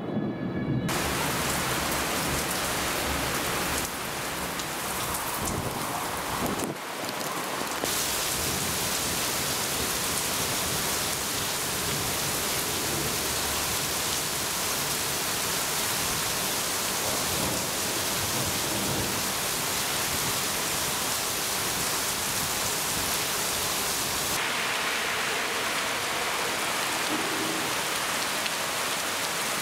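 Heavy thunderstorm rain pouring down in a steady hiss, with a low rumble of thunder in the first few seconds.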